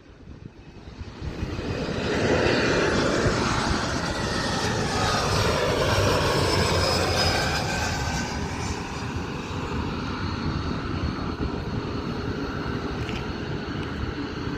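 Aircraft engine noise of a plane flying past. It swells over the first two seconds and is loudest in the middle, with its pitch falling as the plane goes by. It then eases off but keeps running steadily.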